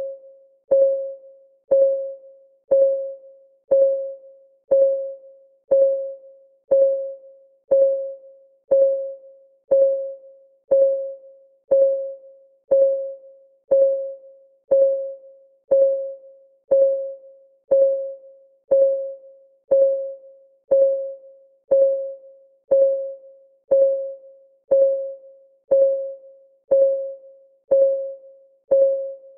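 Clock-ticking sound of a countdown timer: a steady tick once a second, each a sharp click with a short, fading ringing tone.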